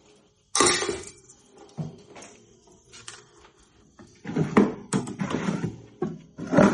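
Live river crabs scrabbling and clattering in a pot. Irregular scraping and knocking comes in bursts, with a sudden loud one about half a second in and a busier run of them through the second half.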